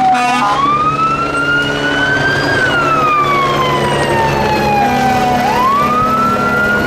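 Fire truck siren wailing in a slow rise and fall: it climbs over the first two seconds or so, sinks slowly over the next three, then climbs again near the end. A steady low drone runs underneath.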